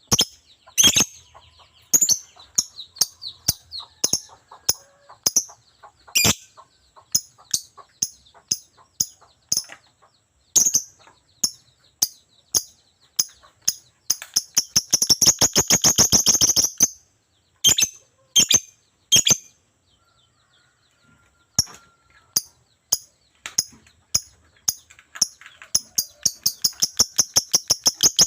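Lovebird singing: a long string of short, sharp, high chirps, breaking into fast, unbroken chattering runs about halfway through and again near the end, with a brief pause in between.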